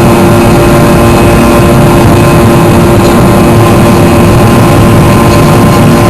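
Fokker 100's rear-mounted Rolls-Royce Tay turbofans heard from inside the passenger cabin: a loud, steady rush of engine and air noise with a steady whine on top.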